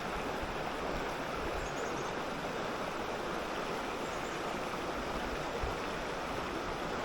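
River water running steadily, a constant even rush, with a few faint high chirps.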